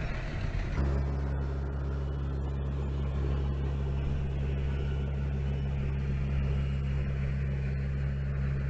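Dump truck's diesel engine running steadily at a low, even idle-like pitch, settling into a constant drone about a second in.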